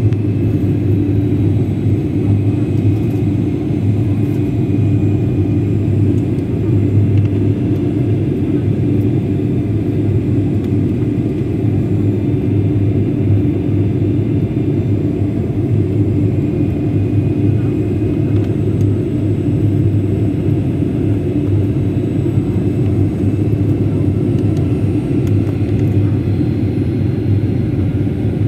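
Steady drone of an airliner's engines and airflow heard inside the passenger cabin, a loud, even low rumble with a constant low hum.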